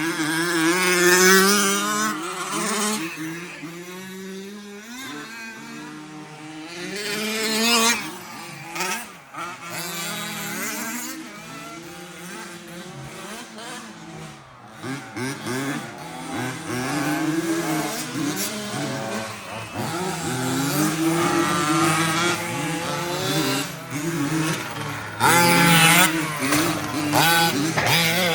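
Several remote-control 4WD racing trucks running laps together, their motors rising and falling in pitch as they accelerate and slow for corners. The sound swells as trucks pass close, about a second in, around eight seconds and again near the end.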